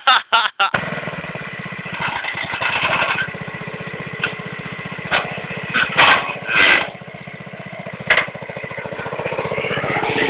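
Tractor engine running with an even beat of firing pulses, getting louder near the end, with several short loud sounds over it.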